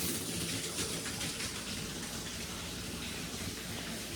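Shower water running steadily from the hot side into a shower pan, a continuous even splashing.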